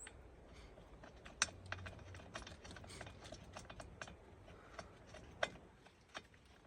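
Faint, irregular light clicks and taps of tools and hard plastic chainsaw parts being handled during a chainsaw service, with two sharper knocks about a second and a half in and near the middle.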